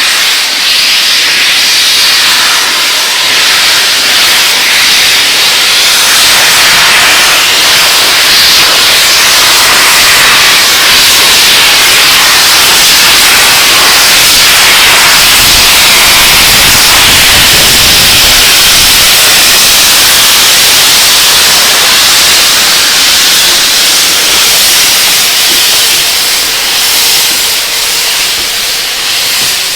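Steam locomotive releasing steam in a loud, steady hiss that holds for the whole stretch, with a faint low rumble added near the middle.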